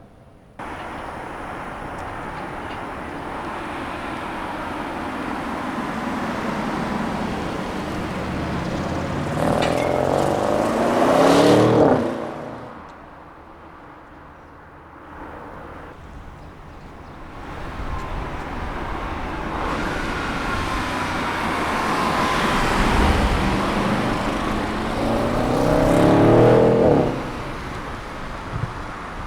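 Audi RS6's twin-turbo V8 accelerating hard twice, each pull building for about ten seconds with the pitch rising before the sound falls away sharply.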